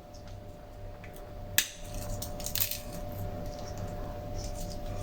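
Crispy deep-fried whole-wheat breadsticks crunching and cracking, with a sharp snap about a second and a half in and scattered crackles after it.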